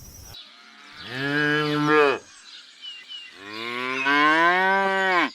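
Cow mooing twice: a call of about a second, then a longer one of about two seconds.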